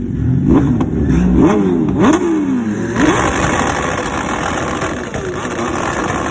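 An engine revved hard in several quick blips, its pitch climbing and dropping sharply over the first three seconds. After that comes a steadier, louder rushing noise.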